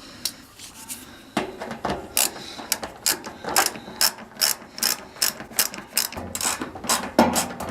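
Socket ratchet being worked back and forth, its pawl clicking in quick repeated strokes about two to three times a second.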